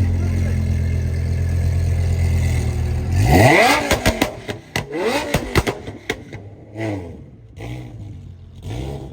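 A high-performance engine idling steadily, then revved hard about three seconds in, followed by a series of quick throttle blips that rise and fall in pitch.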